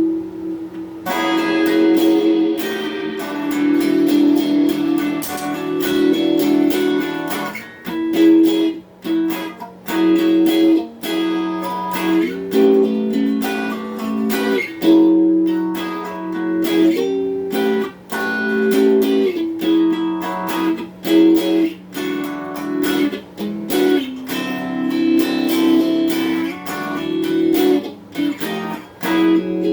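Donner Q1 HSS Strat-style electric guitar played through a small Cahaya amp: a run of picked notes and strummed chords that starts about a second in and keeps going, with one low note held underneath.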